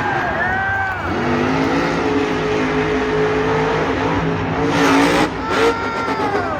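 Monster truck engine revving hard, its pitch rising and falling with the throttle and holding steadier in the middle, with a rush of noise about five seconds in.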